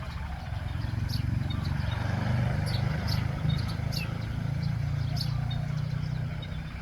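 A motor vehicle's low engine rumble swells, loudest around the middle, and eases off as it passes. Short, high bird chirps repeat over it.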